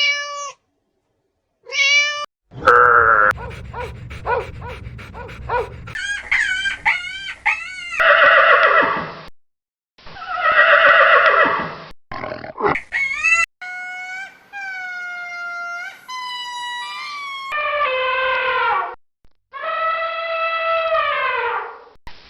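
A quick succession of different animal calls, spliced one after another with abrupt cuts and brief silent gaps; most are loud pitched cries that bend up and down.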